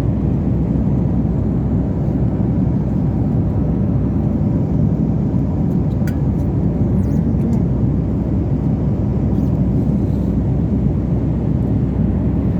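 Airliner cabin noise at cruise: a steady low roar of jet engines and rushing air.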